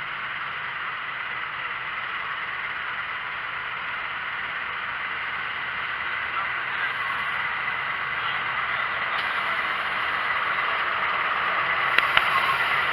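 Train running, a steady rumble and clatter that slowly grows louder, with two sharp clicks near the end.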